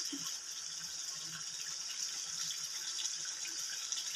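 Tripe frying in oil in a wok, giving a steady sizzling hiss.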